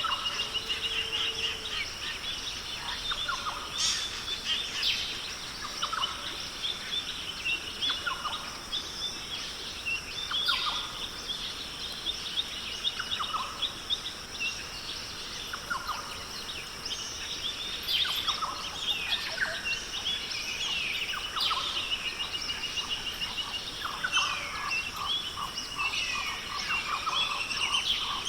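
Rainforest bird chorus: many short calls, chirps and whistles from several birds, with a quick run of repeated notes near the end, over a steady high drone of insects.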